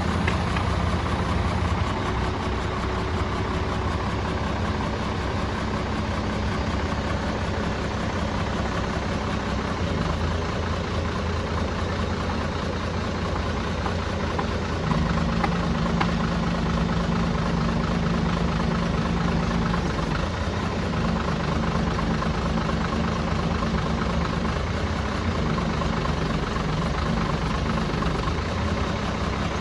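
Heavy vehicle engine running steadily, a low hum with noise over it; the engine note grows louder about halfway through and stays up.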